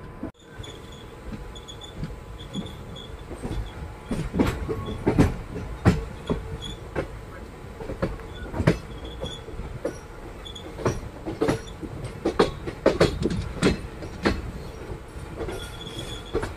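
Indian Railways passenger coach running at speed: a steady rumble of wheels on track, broken by irregular loud clacks as the wheels cross rail joints and points, bunched thickest in the middle. Heard from the coach's open doorway.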